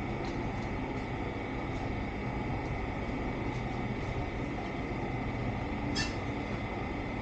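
A steady mechanical drone with a constant hum, with faint ticks about once a second and a single sharp metallic clink about six seconds in.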